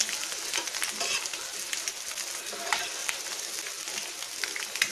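Sliced boiled eggs frying in oil on a flat dosa tawa, a steady sizzle with a spatula scraping and clicking against the pan as they are stirred.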